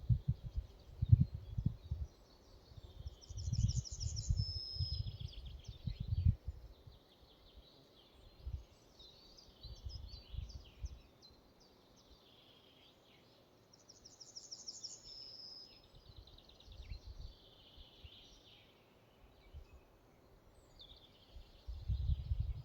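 Songbirds singing in a forest, one bird repeating the same trilled phrase ending in a held note, twice about ten seconds apart. Under it, gusts of wind rumble on the microphone, strongest in the first few seconds and again near the end.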